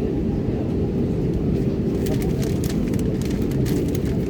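Steady airliner cabin noise in flight: a loud, even low drone of engines and airflow with a steady hum running through it, and a few faint ticks about halfway through.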